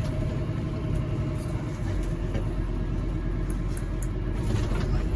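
Fire engine's diesel engine and road rumble heard from inside the cab while driving: a steady low drone with a few faint clicks.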